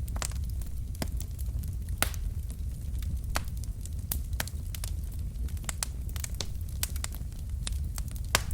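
Logs burning in a fireplace: the wood crackles with scattered sharp pops over a steady low rumble.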